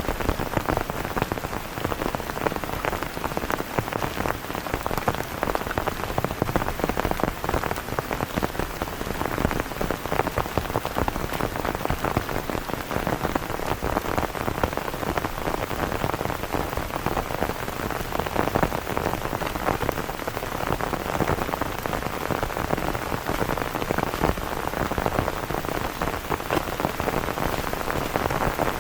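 Heavy rain pouring steadily, a dense, unbroken patter of drops.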